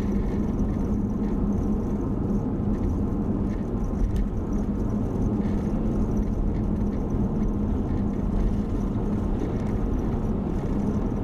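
Steady road and engine noise heard inside a moving car's cabin: an even low rumble with a steady hum.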